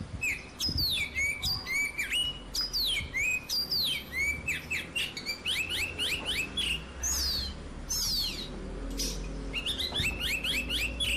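A small bird chirping rapidly and continuously: quick high-pitched calls that sweep up and down in pitch, with a short pause about eight seconds in before the chirping resumes.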